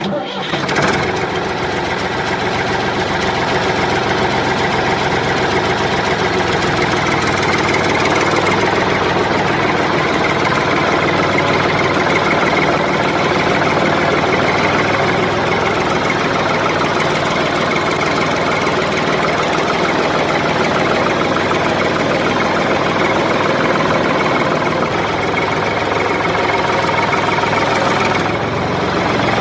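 Tractor engine sound running steadily at an even pace, starting abruptly and holding level throughout.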